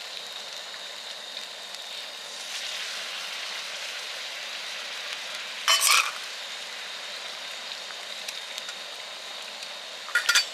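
Tteokbokki sizzling and bubbling in its sauce in a shallow black griddle pan, a steady hiss. Two brief, louder clacks break in, about six seconds in and again near the end.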